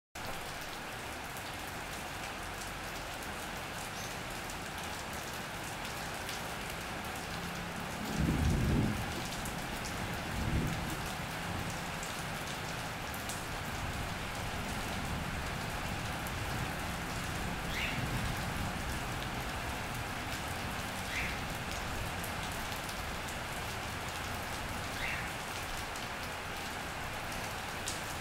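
Steady rain falling on an iron roof and wet paving. About eight seconds in, a low rumble swells for about a second, with a smaller one a couple of seconds later.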